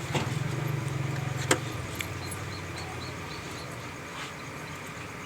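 A vehicle engine hums steadily, then fades out about three seconds in, with a few sharp clicks, the clearest about a second and a half in.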